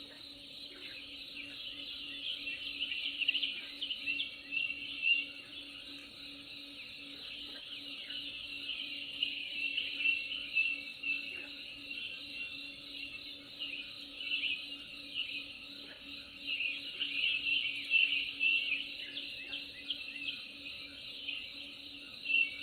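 Nature soundscape: a dense, busy chorus of high chirps and trills from birds and insects, rising and falling in bursts. A faint steady low hum sits underneath.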